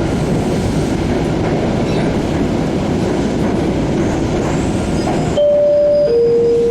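MBTA Siemens 700 Series Blue Line subway car running, with a steady rumble of wheels and motors. Near the end a two-tone falling chime sounds over the train's PA, the signal that precedes the automated next-stop announcement.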